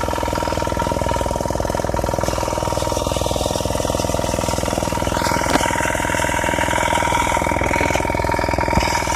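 Honda generator's engine running steadily, with a fast even firing beat and a steady whine. The repairer has judged the engine worn out and liable to stall.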